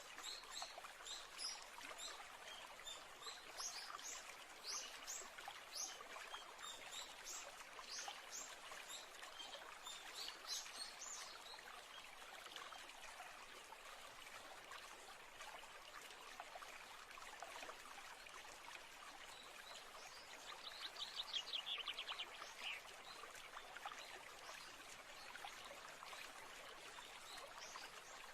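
Faint, steady trickling of a stream, with birds chirping over it through the first ten seconds or so and one quick bird trill about twenty seconds in.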